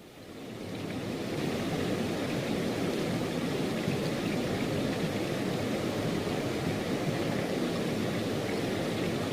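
Steady rain falling as a dense, even hiss, fading up over the first second and then holding steady.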